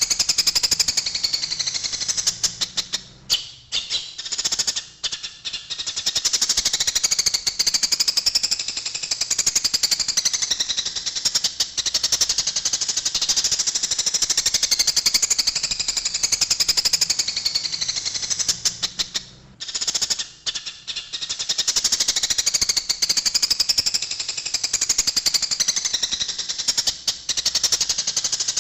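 A flock of Eurasian tree sparrows in a fast, dense, unbroken chatter of harsh chirps, the agitated calling of sparrows fighting. The chatter thins briefly about three to six seconds in and again around twenty seconds.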